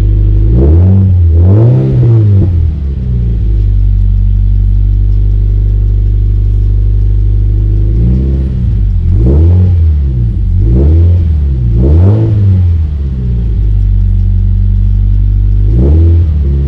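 Toyota GT86's flat-four boxer engine, breathing through a decat HKS front pipe and MXP Comp RS catback exhaust, idling and blipped in short rev bursts: a pair early on, four in quick succession in the middle, and one more near the end, settling back to idle between them.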